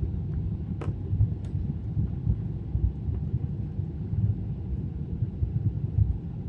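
Airliner cabin noise in flight: a steady low rumble of engines and airflow, with two faint clicks about a second in.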